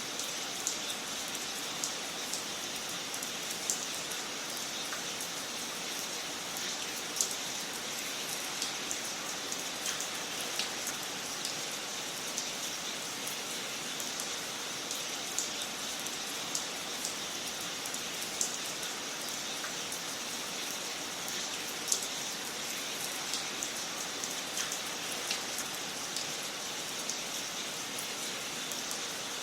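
Wood fire crackling in a fireplace: a steady hiss dotted with irregular small pops and snaps, a couple of them louder than the rest.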